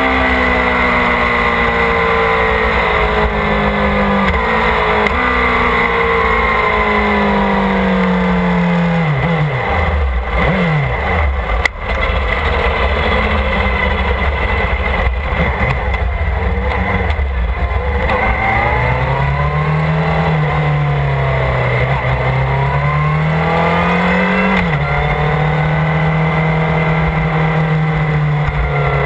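Motorcycle engine under way, with a steady rush of wind noise. Its pitch falls in several steps through the first nine seconds, dips away sharply around ten seconds in, rises and falls a few times past the middle, and then holds steady near the end.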